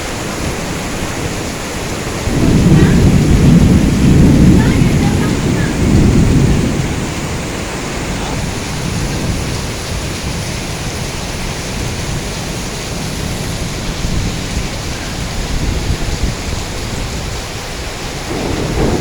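Heavy rain falling steadily, with a deep rumble of thunder rolling in about two seconds in and dying away after about five seconds.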